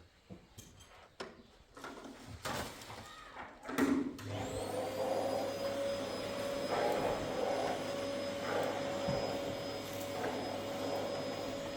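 A few handling knocks and clicks, then an electric motor switches on about four seconds in, spins up with a brief rising whine and runs on steadily with a low hum.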